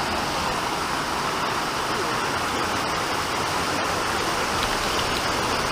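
Steady rush of a waterfall's falling water, an even noise without a break.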